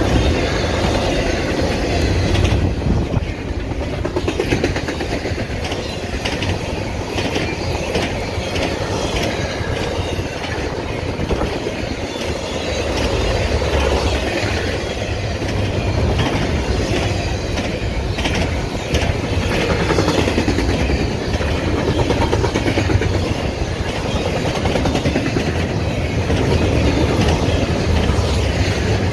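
Double-stack intermodal freight train's loaded well cars rolling past: a steady low rumble with frequent clicks of wheels on the rails.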